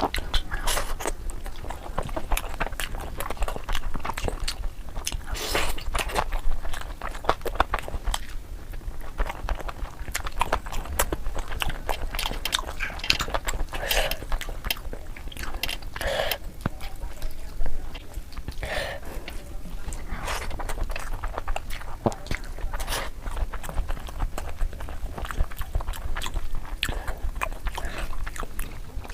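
Close-miked chewing and biting of tandoori chicken, wet smacking with crisp crackles and clicks packed densely, sped up to double speed.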